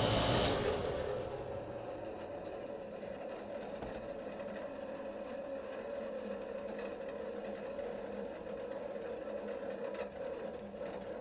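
Window air conditioner just switched off: a high whine cuts out within the first second and the fan motor and blower keep turning with a steady hum as they spin down.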